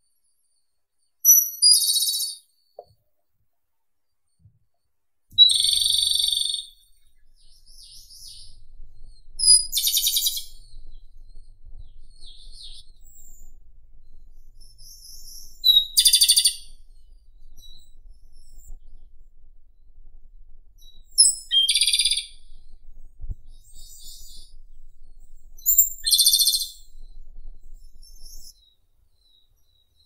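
Japanese robin singing: six short, high-pitched phrases, each opening with a thin note and running into a fast rattling trill, repeated every four to six seconds, with fainter notes between.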